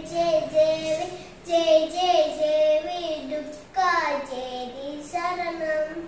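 A young girl singing solo, unaccompanied: a slow melody of long held notes that bend up and down, in short phrases with breaths between them.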